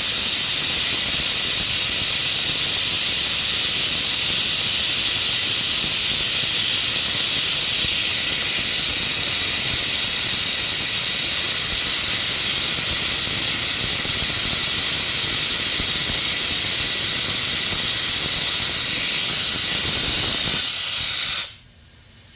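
Steady, loud hiss of compressed air driving an air-powered suction that draws old gasoline out of a Honda lawn mower's fuel tank. The hiss cuts off suddenly about 21 seconds in.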